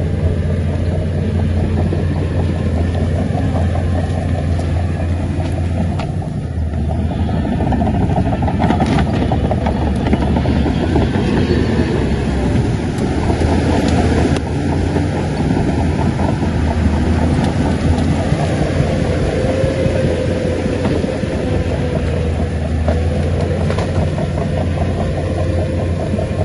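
Shantui crawler bulldozer's diesel engine running steadily under working load, a loud low drone throughout.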